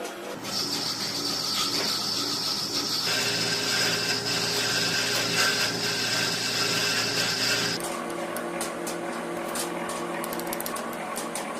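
A small electric power tool running steadily with a constant whine. It gets louder about half a second in and drops back quieter near the eight-second mark.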